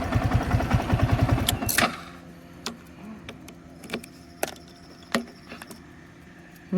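Motorcycle engine idling with a fast, even pulse, switched off about two seconds in. Then a few scattered light clicks and knocks, like keys and handling of the bike.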